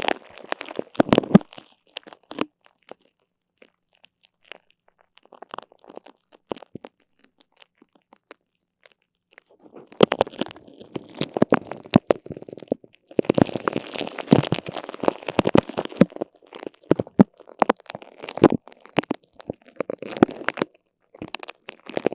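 Close-up sticky crackling and peeling, like a tacky surface being pulled apart and pressed together, in bursts of rapid small clicks. After the first second or so it goes nearly quiet for about eight seconds with only a few faint clicks, then the crackling resumes in long runs.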